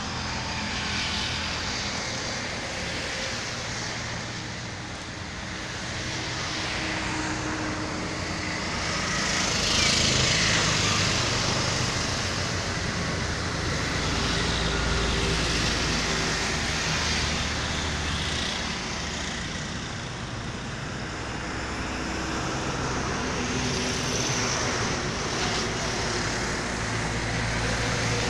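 Mitsubishi Lancer wagon's engine running at idle, a steady drone that swells and eases slightly.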